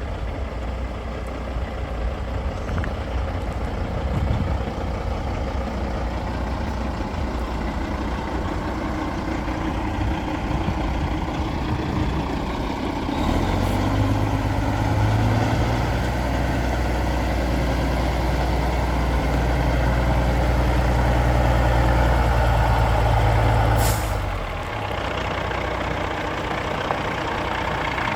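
Kenworth tandem-axle road tractor's diesel engine running steadily. About halfway through it grows louder and heavier, then eases back near the end, with a short hiss as it drops.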